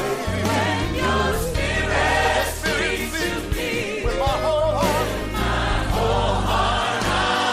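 Gospel music: a choir sings with melismatic runs over a steady bass.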